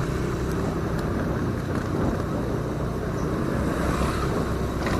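Motorcycle being ridden at a steady pace: a continuous low rumble of engine and road noise.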